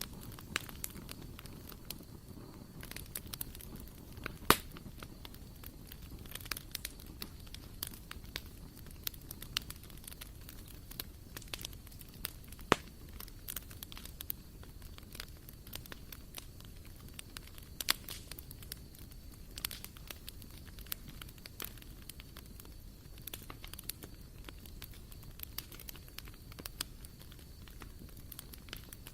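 Wood fire burning in a barbecue grill, crackling with many small irregular pops. A sharper, louder pop comes about four seconds in, and another near the middle.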